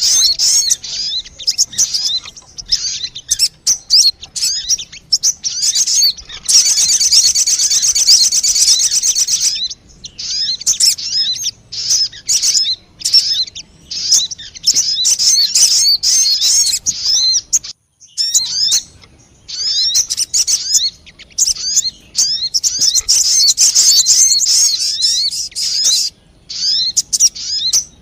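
Dense, rapid high chirping and twittering calls of the bird known in Indonesia as sogon, a lure call recording meant to draw the birds in. A buzzy rattling trill runs from about six and a half to nine and a half seconds in, and the calling breaks off briefly near eighteen seconds.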